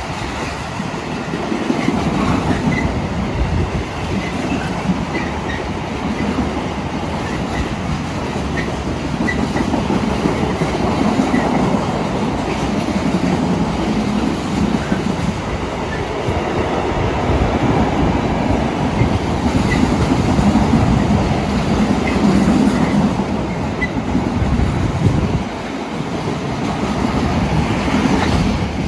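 A long rake of empty flat freight wagons rolling past, a steady loud rumble and clatter of wheels on the rails, with brief high wheel squeaks now and then.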